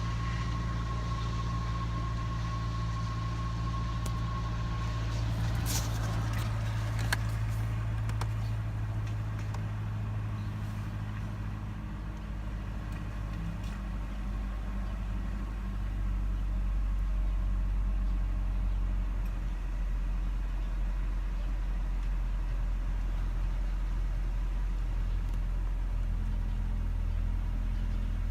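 2007 Nissan Altima engine idling rough at cold start, a steady low drone whose note shifts about twelve seconds in and grows a little louder about sixteen seconds in. A few sharp clicks about six to seven seconds in.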